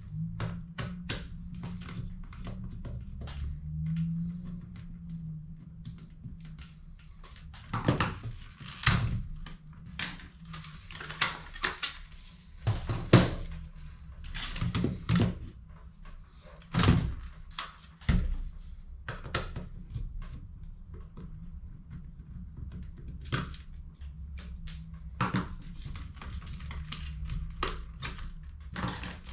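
Plastic HP CE285A toner cartridges and tools being handled on a workbench: irregular clicks, taps and knocks, a few sharper ones in the middle stretch, over a steady low hum.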